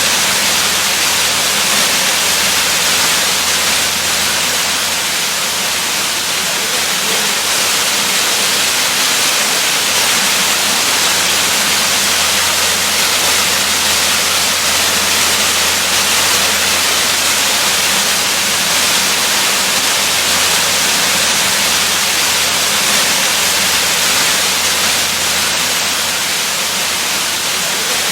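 Waterfall: water falling steadily, an even rushing hiss weighted toward the high end, with no change in level.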